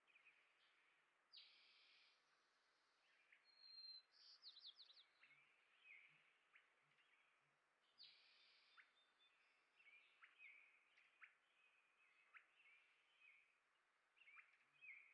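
Small songbirds chirping faintly: short sharp calls and quick downward chirps scattered throughout, a quick trill about four seconds in, and two brief rasping sounds, one near the start and one about eight seconds in.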